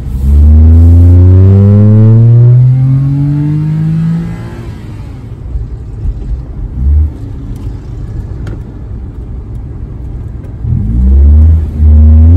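Daihatsu Mira three-cylinder engine heard from inside the car's cabin accelerating hard, its pitch rising steadily for about four seconds before it eases off. Near the end it pulls loudly again at a steadier pitch.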